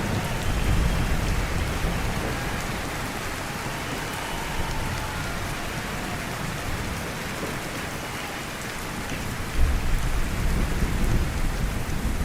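Steady rain falling, with low thunder rumbling: one roll in the first couple of seconds and another breaking in suddenly near the end.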